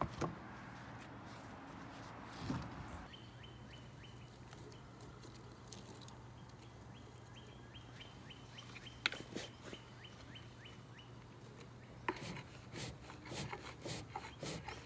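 A bird chirps over and over in the background, a short falling note repeated a few times a second. Near the end come quick rhythmic strokes as a hand-held fan is waved at the open door of a small cast-iron wood stove to give the fire air.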